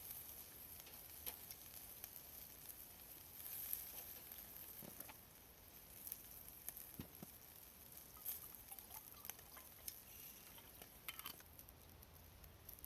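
Faint sizzling of food grilling, with scattered small crackles and clicks.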